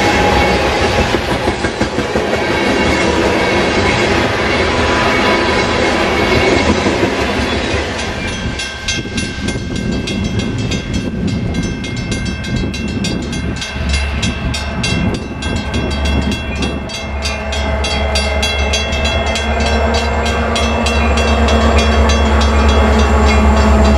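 Freight train cars rolling past on snowy track, wheels clattering as the train draws away. A diesel locomotive on a Metra commuter train then comes up, its low engine rumble growing louder over the last several seconds.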